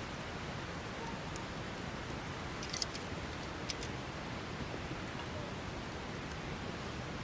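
Wood campfire burning with a steady hiss, and a few sharp crackles from the burning wood a little before the middle.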